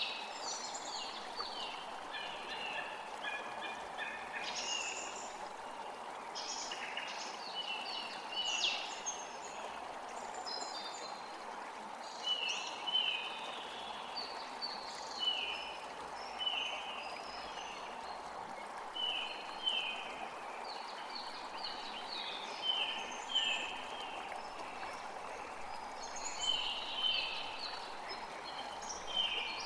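Several songbirds singing and calling, a mix of quick chirps and a short downslurred note repeated about once a second, over a steady background hiss.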